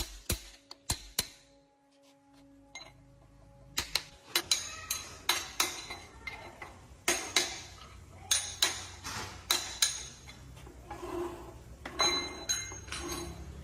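Metal clanking and tapping: irregular sharp knocks of tools and heavy metal parts, some of them ringing briefly. A steady low hum comes in about four seconds in.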